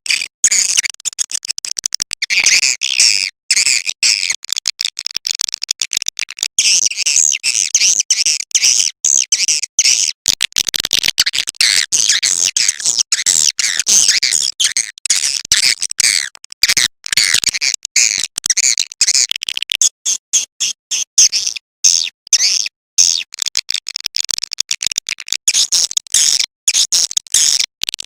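Swiftlet lure call: a recorded track of edible-nest swiftlet chirps and twitters, dense and high-pitched, chopped by many brief silent gaps, of the kind played to draw swiftlets into a nesting house.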